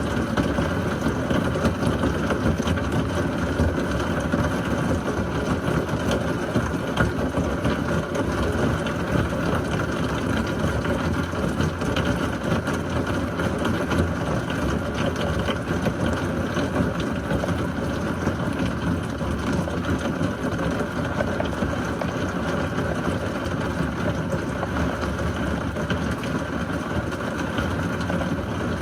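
Heavy rain pouring steadily in a severe thunderstorm, an even roar with dense fine patter and no thunderclap standing out.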